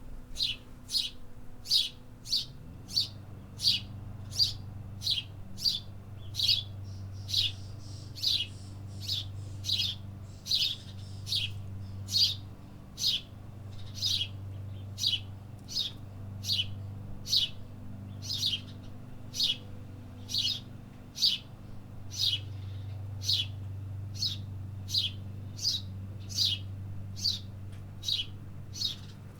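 A small songbird chirping over and over, one short, high, downward-sliding note repeated about three times every two seconds. A low steady hum runs underneath, coming in about three seconds in.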